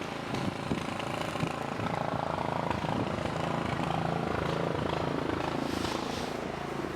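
Snowblower engine running steadily, a little louder in the middle, then easing off.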